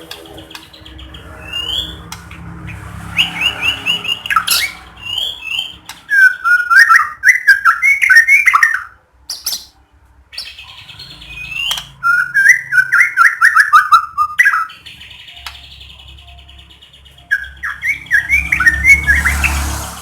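White-rumped shama (murai batu) singing in loud, rapid phrases of quick up-and-down notes, broken by short pauses and quieter chattering calls.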